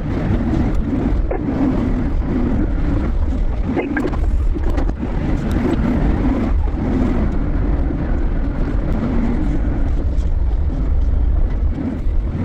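Heavy engine of an empty container handler (container forklift) running under work, a steady low drone with scattered short knocks and clanks.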